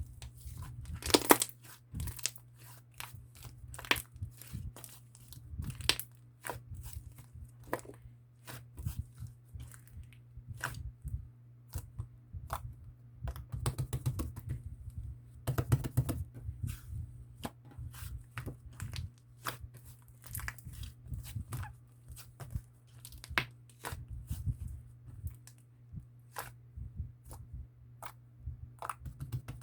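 Hands kneading and mixing sherbet slime with whipped-cream slime, making dense, irregular sticky clicks, pops and crackles. A few pops are louder, one about a second in and a cluster around the middle. A low steady hum runs underneath.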